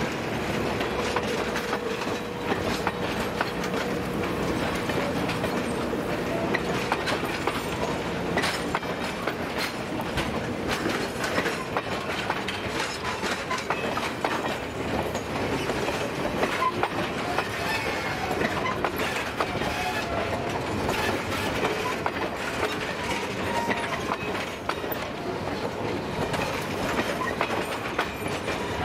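Passenger coaches of an excursion train rolling past close by, their steel wheels clicking and clacking over the rail joints with a steady rumble underneath.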